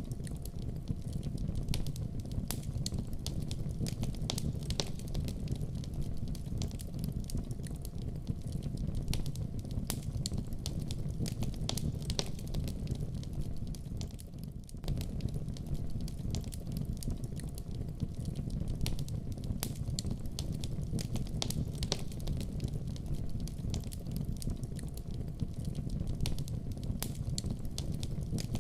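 Fire burning in a fireplace: a steady low rumble of flames with frequent small, sharp crackles and pops. The rumble dips briefly about halfway through.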